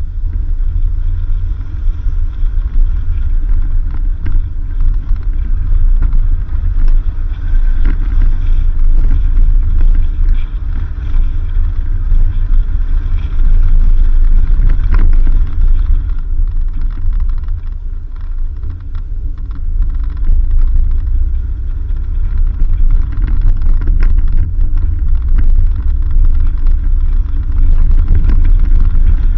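A 4x4 vehicle driving along a dirt road: a loud, steady low rumble of engine and tyres, with scattered small knocks and clicks from the rough surface. It eases off briefly about two-thirds of the way through.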